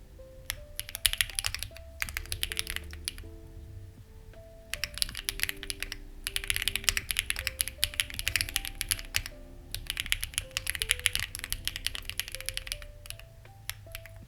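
Typing on a Lucky65 v2 mechanical keyboard with stock, unlubed HMX Ziwei switches and clone CMK keycaps: fast runs of keystrokes broken by short pauses, over soft background music.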